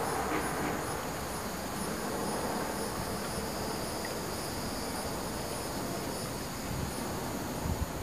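Insects calling outdoors: a steady high-pitched trill with a higher chirp pulsing about twice a second, over a steady low background hiss.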